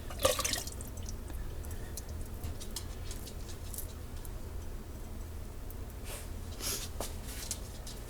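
Home-canned beef curry spooned into a pot: a sharp clink just after the start, then wet plops and drips, with another cluster of wet sounds about six to seven seconds in. A steady low hum lies underneath.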